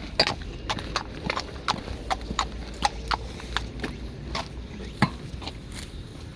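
Hard clicking steps on a paved path, about two to three a second in an uneven walking rhythm.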